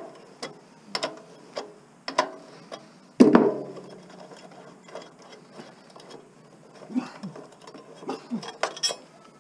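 Hand tools and metal parts clicking and knocking irregularly while a projection TV is taken apart by hand, with one louder clank about three seconds in.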